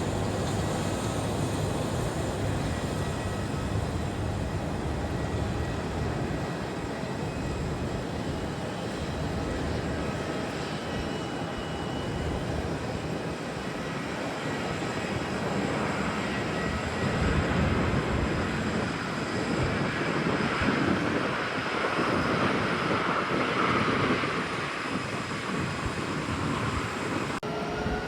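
Jet airliner engines running: a steady rush with faint high whine tones, growing louder in the second half and changing abruptly shortly before the end.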